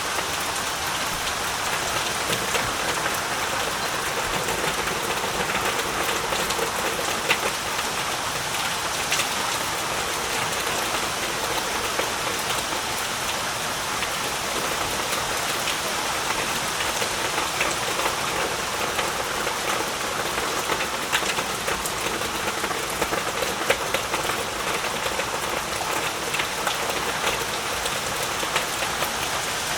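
Heavy rain falling steadily, an even hiss with many distinct drops pattering and an occasional louder drip.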